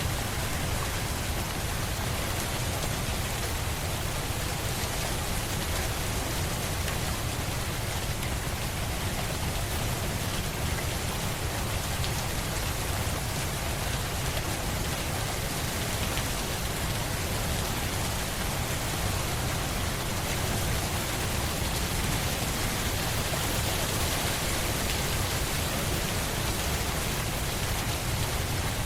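Steady rain falling on a surface, an even wash of drops with a deep rumbling undertone and no change in strength.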